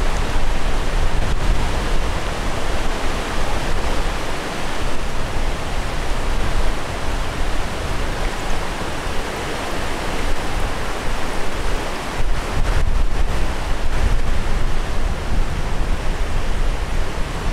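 A river in flood rushing past in a loud, steady roar of churning water, with a deep rumble underneath.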